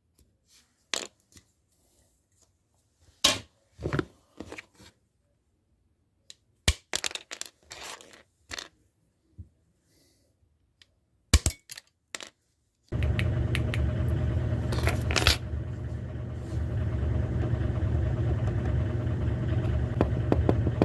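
Sparse clicks, clinks and scrapes of small objects being handled. About thirteen seconds in, a steady machine hum starts and keeps running.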